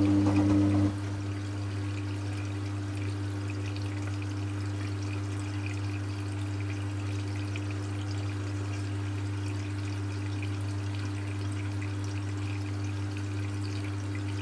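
Hoover Classica 1100 AC164 washing machine in its final rinse: water pouring and trickling inside the machine over a steady low electrical hum. About a second in, part of the hum cuts out and the sound drops a little, then runs on steadily.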